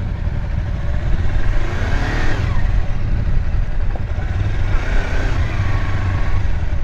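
Kawasaki Versys X 300's parallel-twin engine running as the motorcycle rides along slowly, with a heavy low wind rumble on the microphone.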